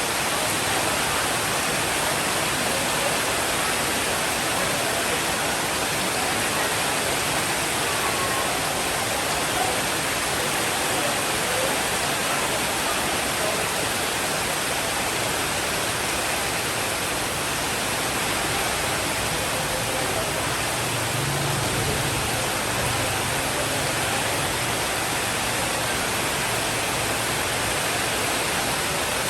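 Steady, even rainfall hiss, with a soft low rumble of distant thunder about two-thirds of the way through.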